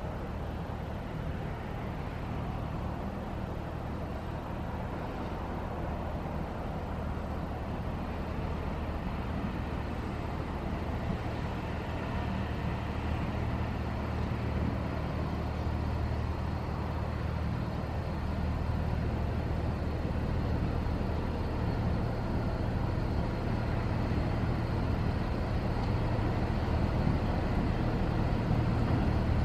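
Diesel engine running steadily with a deep hum, growing gradually louder.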